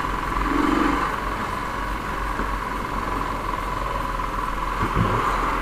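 Royal Enfield Thunderbird 350's 346 cc single-cylinder engine idling steadily.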